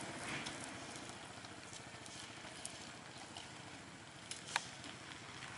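Faint, steady outdoor background hiss, with two light, sharp knocks close together about four and a half seconds in.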